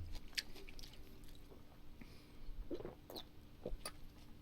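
Soft chewing of food, with a few scattered small mouth clicks and smacks.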